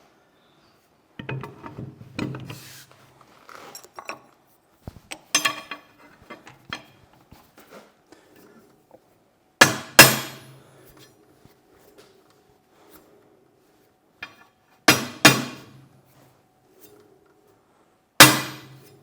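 Metal parts clinking and knocking, then loud hammer blows on steel: a pair about halfway through, another pair about 15 seconds in and a single blow near the end, each leaving a metallic ring.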